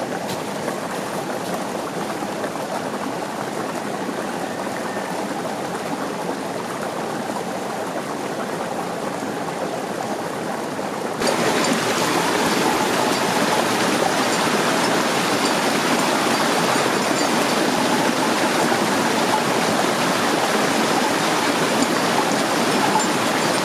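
Steady rushing water, an even hiss with no pauses, which jumps abruptly louder about eleven seconds in.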